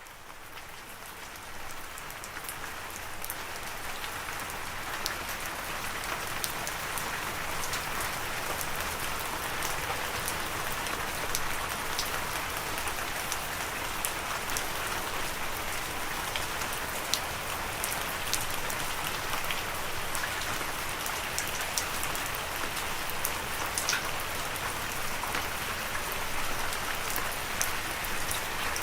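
Steady rain falling, a dense even hiss with individual drops ticking sharply through it. It fades in from silence over the first few seconds, then holds steady.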